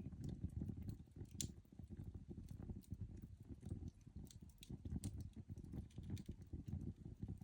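Coal fire burning, with irregular small crackles and pops over a low, uneven rumble.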